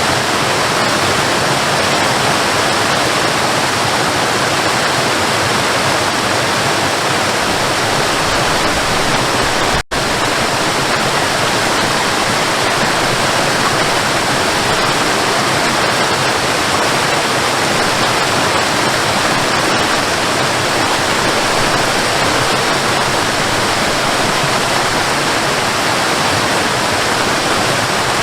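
Waterfall: a steady, loud rush of falling water, with one momentary dropout about ten seconds in.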